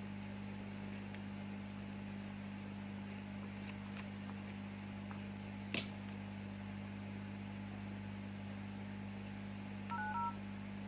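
Steady low electrical hum, with one sharp click a little past the middle. Near the end, phone keypad tones begin: a few short touch-tone beeps as a number is dialled.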